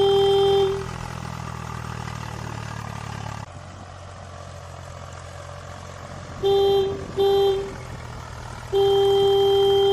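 Vehicle horn honking over a steady engine hum: a long honk that stops under a second in, two short toots about six and a half and seven seconds in, and another long honk near the end. The engine hum drops in level about three and a half seconds in.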